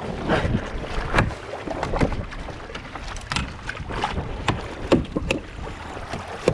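Irregular knocks and thumps on a kayak, about seven of them, as a freshly landed king salmon is handled and dispatched aboard.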